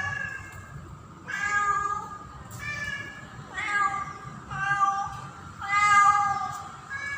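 Female domestic cat in heat calling for a mate: a run of about six drawn-out, pitched meowing calls, each lasting about a second with short pauses between them.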